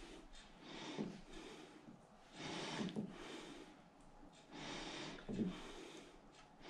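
A man breathing audibly through his nose close to the microphone, about three slow breaths a couple of seconds apart.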